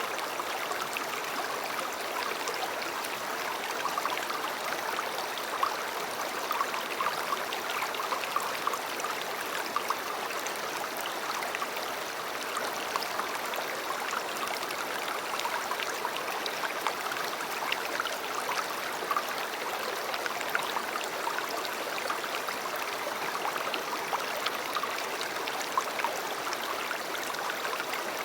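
A river flowing: a steady rush of water with fine splashing and burbling over it.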